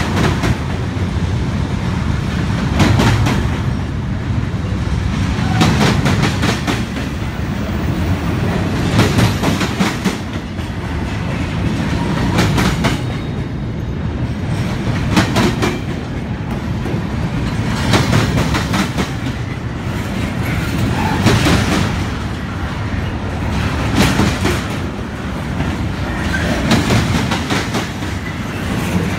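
Union Pacific double-stack freight train rolling past, a steady low rumble with clusters of wheel clacks over the rail joints about every three seconds.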